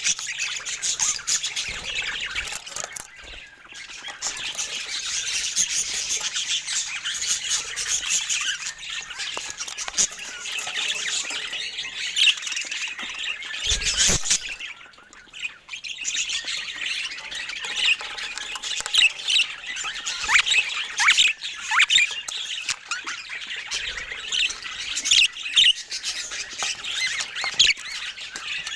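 Budgerigar chatter: a continuous stream of high chirps, warbles and squawks, with brief lulls twice and a single soft thump about halfway through.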